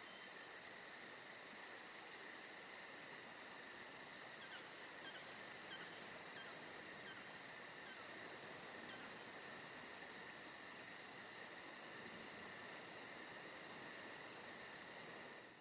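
Night-time insect chorus: crickets chirping in a fast, even pulse over a steady high trill, with a few short falling chirps in the middle. It cuts off suddenly at the end.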